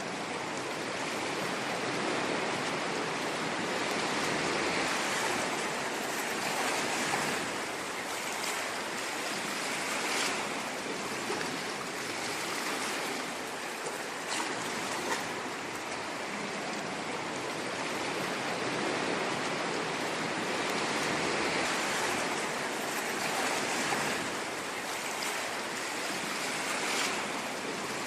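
Ocean waves washing and breaking continuously, the surge swelling and easing every few seconds, with a few brief splashes.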